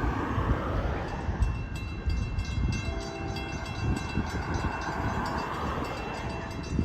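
Passenger train running: a continuous low rumble with rapid clicking, and from about three seconds in a few steady held tones sound over it.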